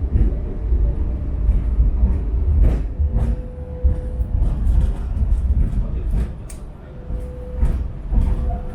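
Hong Kong Light Rail train running with a steady low rumble and scattered rail clacks. A thin steady whine comes in twice, about three seconds in and again near the end.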